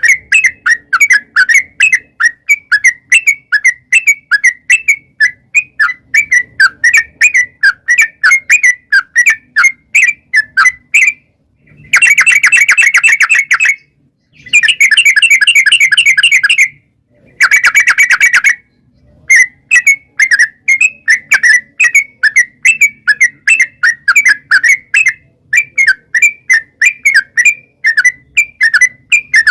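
Yellow-vented bulbul (trucukan) singing: a long run of short, loud chirping notes, about three a second. Near the middle the notes run together into three fast trills, then the chirping resumes.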